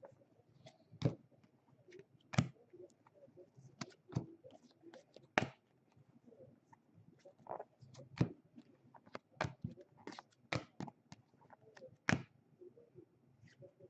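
Trading cards being handled at a table: irregular sharp taps and clicks, about one a second, as cards are flipped and set down.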